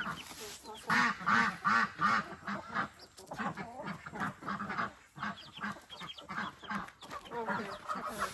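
Ducks quacking in rapid runs of short calls, several a second.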